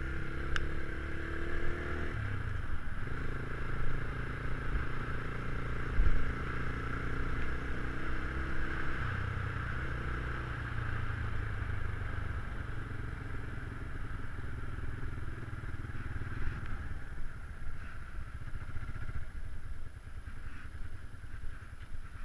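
Geon Scrambler 250 motorcycle engine running while being ridden, its engine note shifting up and down as the throttle changes, over wind and road noise.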